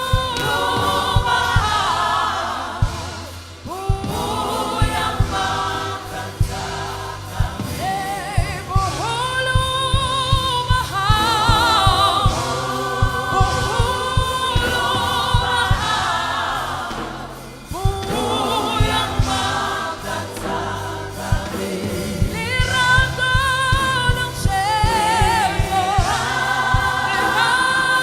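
Gospel choir singing with band accompaniment, voices in harmony over a steady beat and bass line.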